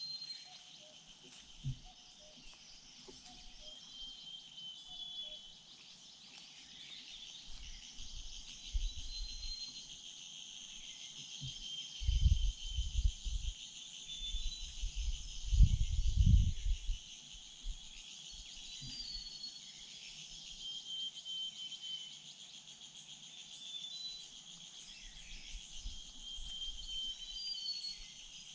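Steady high-pitched chorus of insects such as crickets or cicadas, with short thin bird whistles scattered through it. Low rumbling thumps twice, about twelve and sixteen seconds in, are the loudest sounds.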